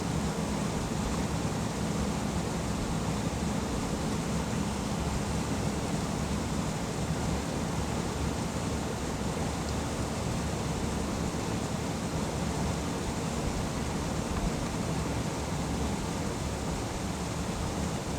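Steady rushing noise of a vehicle's climate fan blowing over an idling engine's low hum, heard from inside the cabin.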